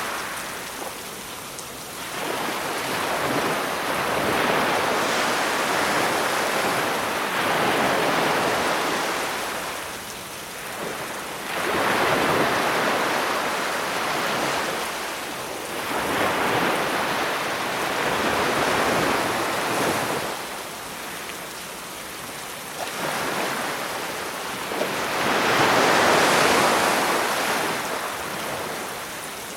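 Sea waves breaking on a beach, each wash swelling up and falling back every few seconds.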